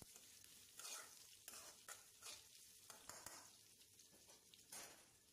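Faint sizzle of curry leaves and crushed garlic frying in coconut oil in a kadai, with a few soft ladle stirs.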